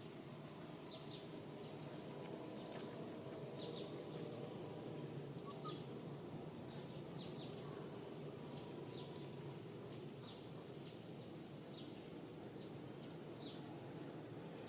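Short, high chirps repeating irregularly about once a second, like small birds calling, over a steady low background hum of outdoor noise.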